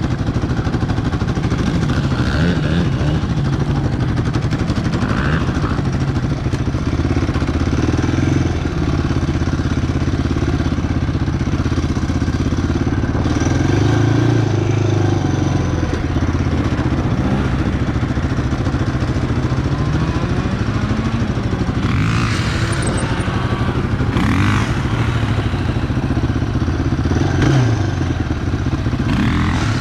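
Single-cylinder ATV engine running on the move, its pitch rising and falling as the throttle is worked, with a few short rushing noises near the end.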